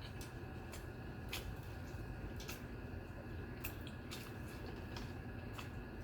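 Close-miked eating sounds: wet chewing with scattered sharp mouth clicks and smacks, about one every half-second to a second, from someone eating curry and rice.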